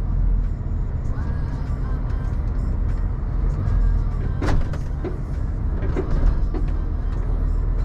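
Scania truck running with a steady low engine rumble, with a sharp click about four and a half seconds in and music playing underneath.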